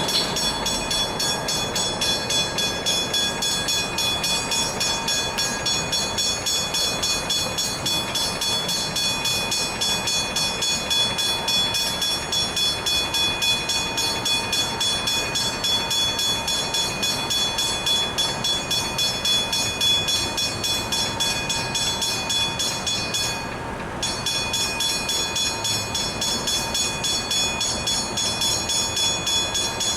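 Level crossing warning bells ringing in a fast, even rhythm of repeated strikes. The ringing briefly drops out in the upper tones about three-quarters of the way through.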